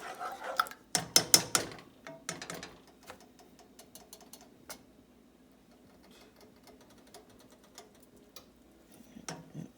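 A spoon stirring thickening sauce in a pot, clicking and scraping against the pot: a quick run of sharp clicks about a second in, another shorter run soon after, then scattered lighter clicks.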